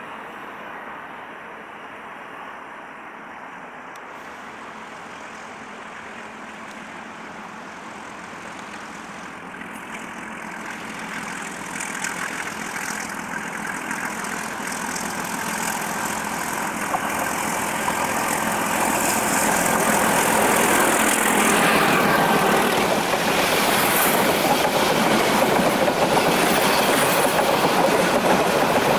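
MLW DL535A diesel-electric locomotive hauling a loaded passenger train, its engine growing steadily louder for about twenty seconds as it approaches. Its coaches then roll past close by with the clickety-clack of wheels on the rails.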